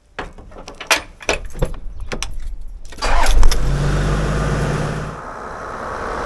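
Keys jangling and a run of clicks, then a car engine starting about three seconds in with a loud catch, and running steadily.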